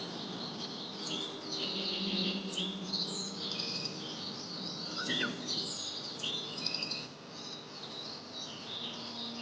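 A chorus of many birds chirping and calling at once, dense, short, high notes and trills overlapping, with one quick sliding call about five seconds in. The sound cuts off abruptly at the end.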